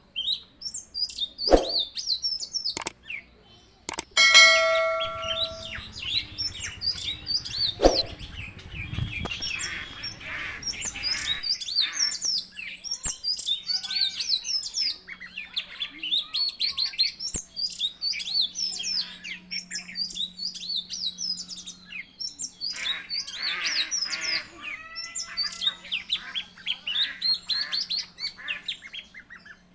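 Many small birds chirping continuously. A few sharp clicks come in the first several seconds, with a brief ringing tone about four seconds in.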